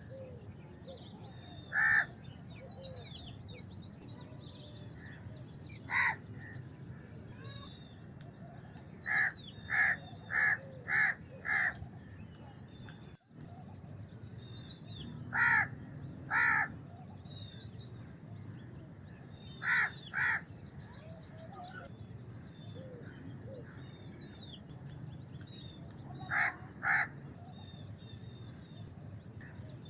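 House crows cawing in short harsh calls: one at a time at first, a quick run of five about nine seconds in, then in pairs. Smaller birds chirp and twitter throughout over a low steady background hum.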